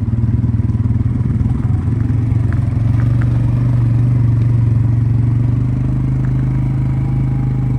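Polaris Sportsman ATV engine running steadily as the quad is ridden slowly, a little louder in the middle, with a few faint clicks.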